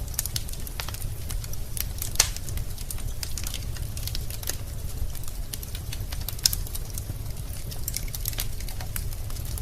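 Wood fire crackling in a fireplace: irregular sharp snaps and pops of burning logs over a steady low rumble, with two louder pops, one about two seconds in and one about six and a half seconds in.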